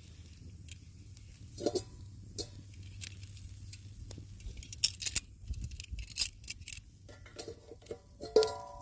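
Scattered clicks and knocks of cookware handled at a campfire, then a metal pot clinking with a short ring near the end.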